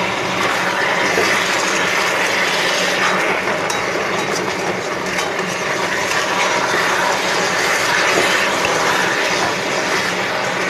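Chicken drumsticks and masala sizzling steadily in a cast-iron kadai over high heat while a spatula stirs them, as the gravy is fried dry.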